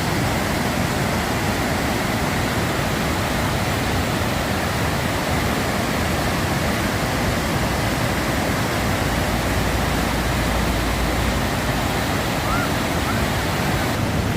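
Steady, unbroken rush of a large waterfall, water roaring evenly without pause.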